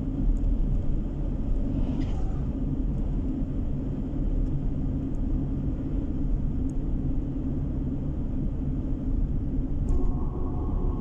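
Steady low road and engine rumble of a car driving, heard from inside the cabin. A faint steady tone comes in near the end.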